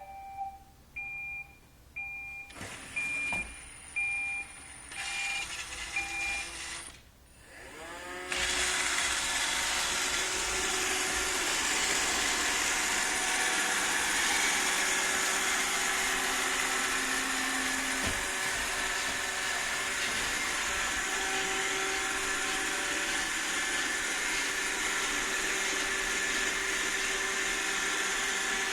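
Roomba robot vacuum beeping about once a second, then about eight seconds in its motors spin up with a rising whine and it runs steadily, vacuuming.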